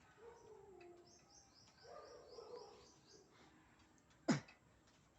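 A bird's quick run of high, short, falling chirps, about five a second, starting about a second in and lasting under two seconds. Faint voices are in the background, and a single sharp knock comes near the end and is the loudest sound.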